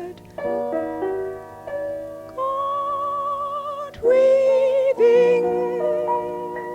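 A woman sings the closing phrase of a song in long notes with vibrato over piano accompaniment. A louder held note comes about four seconds in, and the final note dies away near the end.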